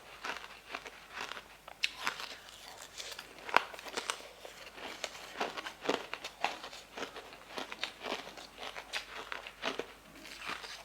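Close-miked eating: a quick run of crunchy bites and chewing with crinkling crackles, one louder crunch about three and a half seconds in.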